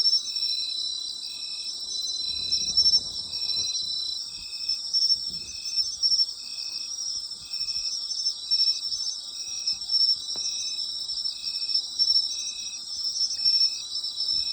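Autumn night chorus of insects: several overlapping high-pitched trills, with one insect chirping in a steady, even rhythm about twice a second.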